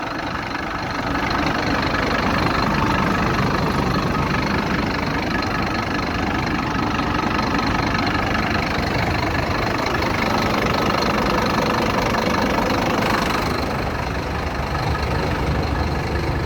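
Scania K310IB city bus's diesel engine idling steadily, with a hiss over it that eases off about 13 seconds in.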